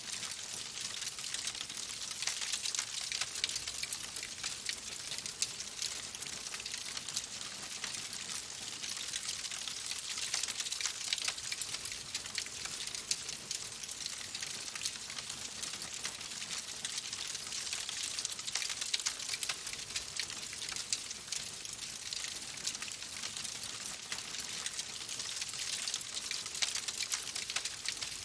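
Wood fire in a fireplace crackling: a steady hiss thick with small, rapid pops, and now and then a louder pop.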